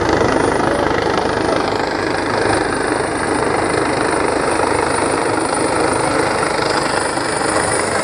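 Helicopter running close by as it comes in to land, a loud, steady rotor and engine noise with a fast chop.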